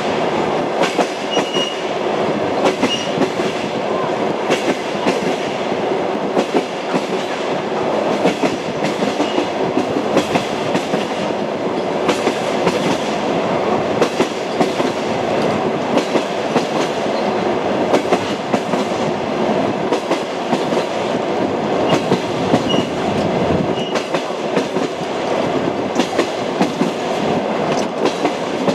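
Train wheels knocking steadily over rail joints, a continuous running rumble with frequent sharp clicks.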